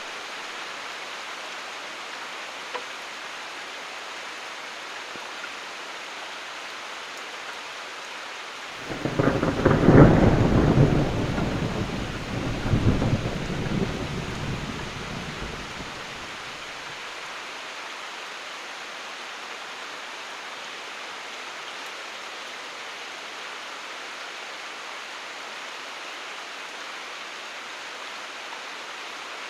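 Steady rain falling, with a thunderclap about nine seconds in that rumbles on, swells once more and dies away over about seven seconds.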